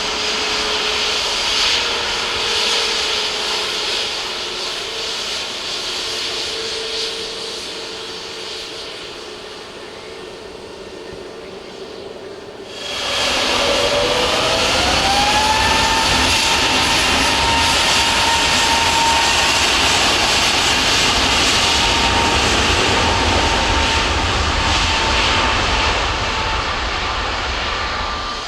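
Jet airliner turbofan engines running, easing off over the first dozen seconds. After an abrupt jump in level the engines spool up with a rising whine that settles into a steady high whine over a low rumble.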